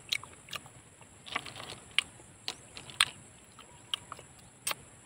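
Close-up eating sounds of raw freshwater snails: an irregular scatter of sharp clicks as the shells are picked over in the pile, mixed with lip smacks of chewing.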